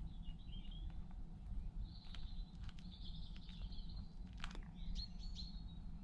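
Small songbirds chirping and twittering in three short spells, with a few faint clicks in between.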